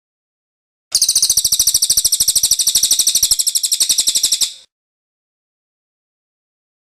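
Cililin bird trilling: one fast, even run of high notes, starting about a second in and stopping suddenly after about three and a half seconds.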